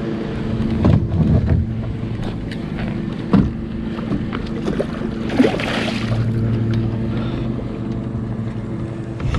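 Hollow knocks against a kayak and a burst of splashing about five and a half seconds in, as a big muskie is fought close alongside, over a steady low hum.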